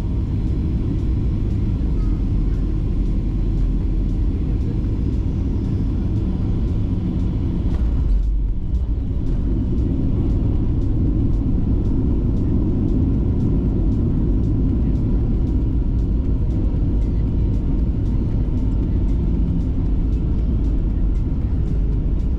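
Boeing 737-800 landing roll heard from inside the cabin: a loud, steady, deep rumble of the CFM56 engines and the wheels on the runway, with a brief dip about eight seconds in.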